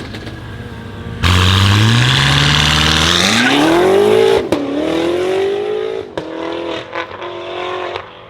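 A modified car's engine revving hard as it accelerates away. The engine note climbs steadily, breaks with a sharp crack at an upshift, then climbs again and fades as the car pulls away.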